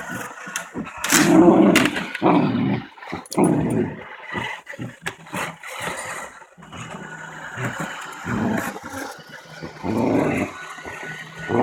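A dog growling and barking at a running Roomba robot vacuum in short, rough bursts, the loudest about a second in, with the vacuum's steady motor hum underneath.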